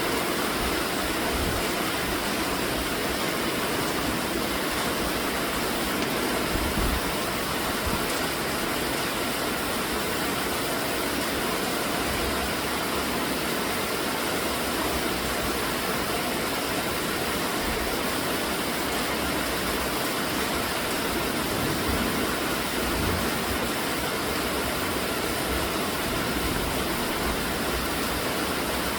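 Steady rainfall, an even hiss of rain with occasional low rumbles now and then.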